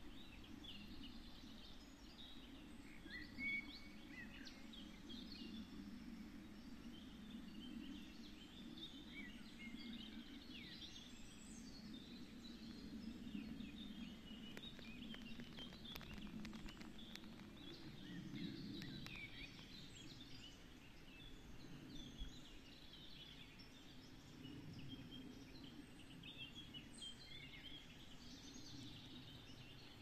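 Faint birdsong: small birds chirping and singing in short phrases scattered throughout, over a low steady rush.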